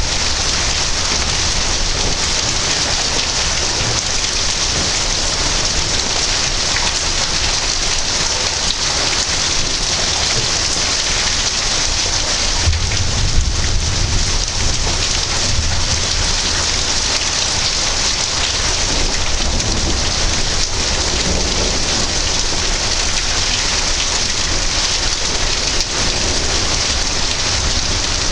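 Steady rain falling during a thunderstorm, with a low rumble of thunder rolling through about halfway in and again a little later.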